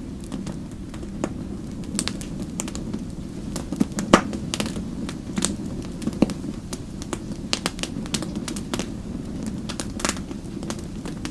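Fireplace wood fire crackling: a steady low rumble of flames with frequent irregular sharp pops and snaps, the loudest pop about four seconds in.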